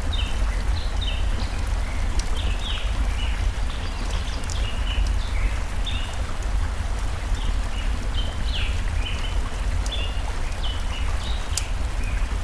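Steady rushing of a flowing stream with a low rumble underneath, songbirds giving many short chirps throughout, and a few sharp crackles from a wood fire.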